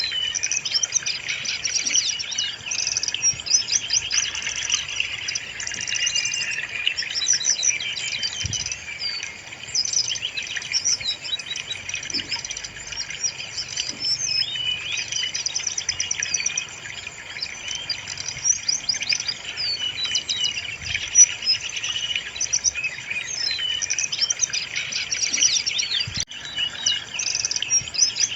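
Brown-chested jungle flycatcher (sikatan rimba dada coklat) singing continuously. Rapid trills, chirps and warbled phrases follow one another with barely a break.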